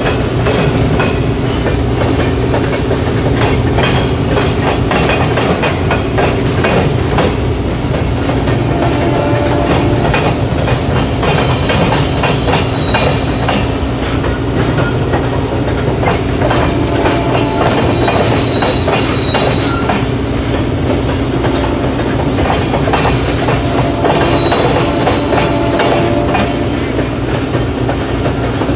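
Long freight train of tank cars and covered hoppers rolling past, steel wheels clicking over rail joints and crossings. Brief high wheel squeals come a few times.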